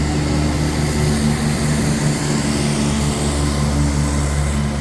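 A train running through the station with a steady low hum over a broad rumble.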